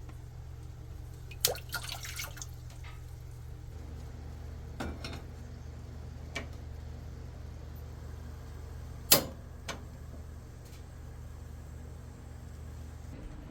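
Several short sharp clicks and knocks over a steady low hum, with a brief clatter about a second and a half in and the loudest knock about nine seconds in.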